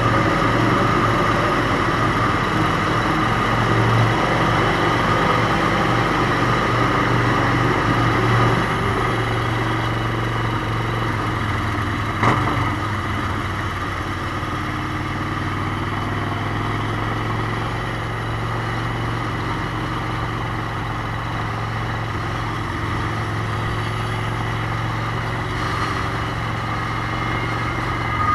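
Motorcycle engine running steadily on the move, easing off slightly after about eight seconds, with one sharp click near the middle.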